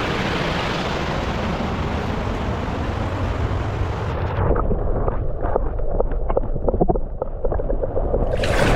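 Loud rumbling wind noise buffeting the microphone. About four seconds in the hiss drops away, leaving a low rumble with irregular crackles and knocks.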